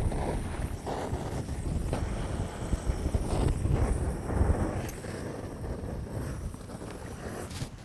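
Wind buffeting the microphone in gusts: a low rumble that swells and fades.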